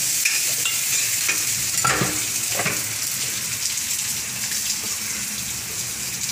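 Garlic, onion and ginger sizzling in hot oil in a wok, a steady hiss, with two light clicks about two seconds in.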